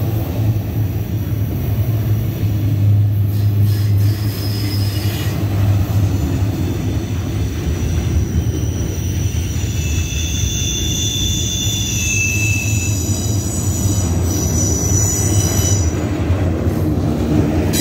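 Double-stack intermodal well cars of a freight train rolling past, a steady low rumble of steel wheels on rail. High-pitched wheel squeals come in, strongest in the second half.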